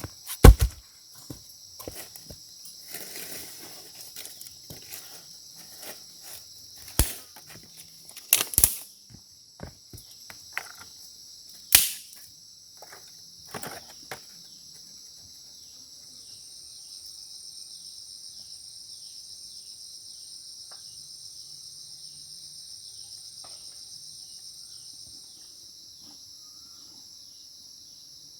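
Insects chirring steadily and high-pitched, with a thin extra whine joining in about halfway through. Over the first half, a scatter of sharp knocks and clicks, the loudest about half a second in and a couple more around eight and twelve seconds in.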